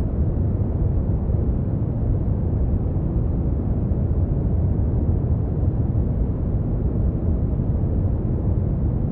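Steady brown noise: a deep, even rumbling hiss, strongest in the bass and with no treble.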